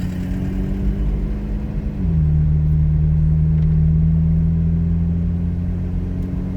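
McLaren Artura's twin-turbo V6 heard from inside the cabin, running steadily under way. About two seconds in the engine note drops in pitch and gets louder, as on an upshift, then holds steady and creeps slightly higher.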